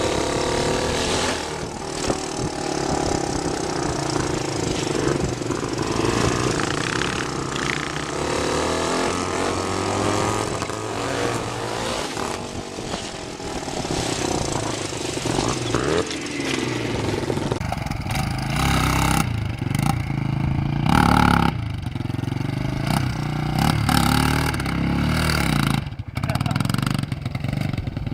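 Dirt bike engine running and revving, rising and falling, with a dense rushing noise over it in the first part. The sound changes abruptly about two-thirds of the way through to a clearer engine note revving up and down.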